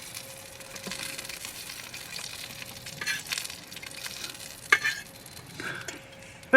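Rabbit pieces frying with a steady sizzle on an electric hot plate. A few brief scrapes and clinks come about three, four and a half, and five and a half seconds in as a fork lifts the pieces out.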